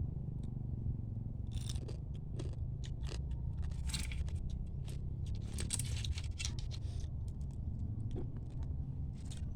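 Scattered clicks, crunches and scrapes of food and dishes being handled at the table, over a steady low hum.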